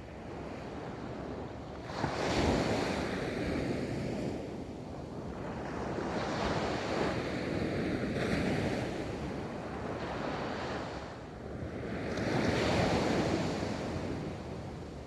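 Ocean surf rolling onto a beach, the waves breaking and washing in surges that swell and fade every few seconds.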